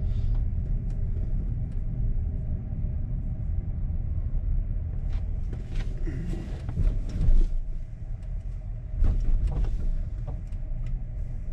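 Low steady rumble of a Tesla Cybertruck on the move, tyre and road noise with no engine note, broken by a few knocks and bumps around the middle.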